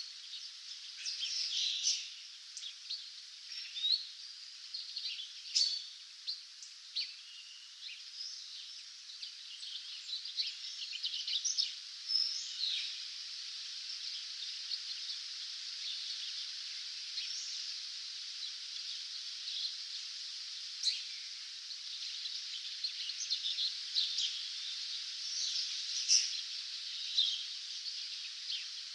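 Several songbirds singing a dawn chorus: many short chirps and trills overlapping, over a steady background hiss.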